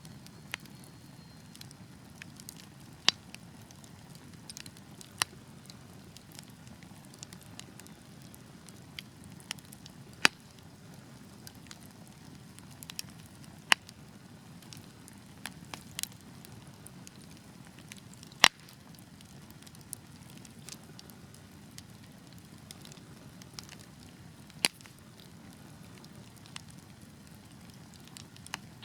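Burning wood logs crackling: scattered sharp pops and snaps, a few much louder than the rest, the loudest about two-thirds of the way through, over a low steady rush of the flames.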